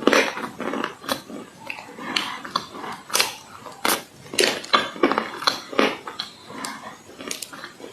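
Close-miked crunching of baked clay being bitten and chewed: sharp, irregular crunches, roughly two a second.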